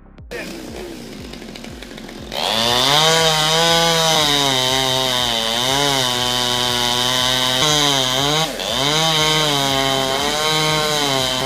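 Chainsaw running hard from about two seconds in, its pitch dipping and rising again several times, over electronic background music with a steady beat.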